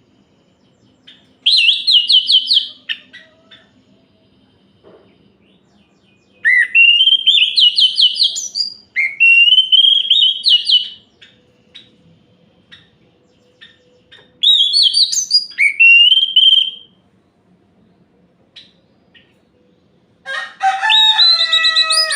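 Orange-headed thrush singing loud whistled song phrases in bursts of one to two and a half seconds, many notes sliding upward in pitch, with short pauses between bursts. Near the end comes a lower, harsher call with several tones stacked together.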